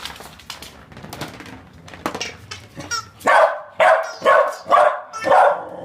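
Puppy barking in a steady run of sharp barks, about two a second, starting about three seconds in, after a stretch of small clicks and rustles.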